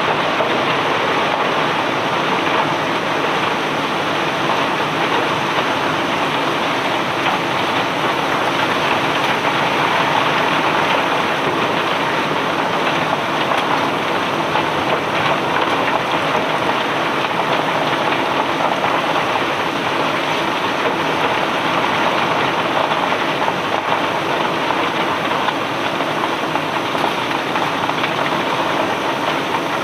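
Steady, dense pattering of many small impacts as cobblestones stream off the barge during unloading.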